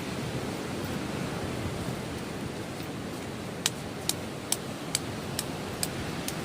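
Steady rush of wind and sea surf. About midway through, a run of sharp, evenly spaced clicks starts, a little over two a second.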